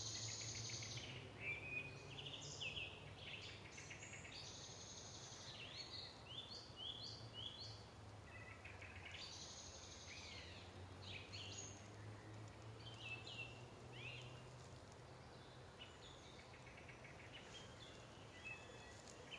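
Birds singing: faint, repeated phrases of high chirps and short falling notes, over a low steady hum that fades out about three quarters of the way through.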